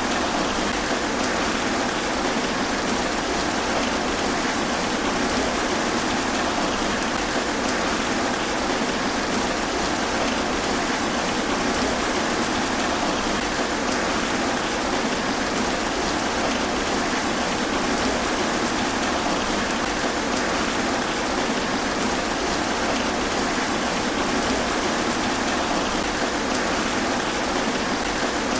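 Steady rain falling through trees, an even hiss of drops on leaves that neither swells nor breaks off.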